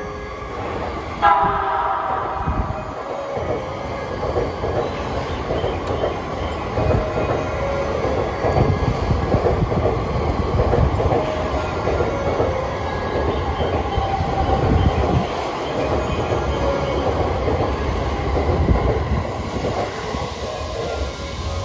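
JR East E257 series electric train sounds a short horn blast about a second in, then runs through the station without stopping, with the steady rumble and clatter of its cars passing.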